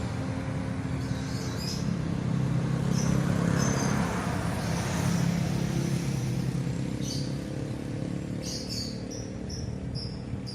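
Wind rushing through trees, swelling to a gust and easing off, over a steady low engine hum. A bird chirps several times near the end.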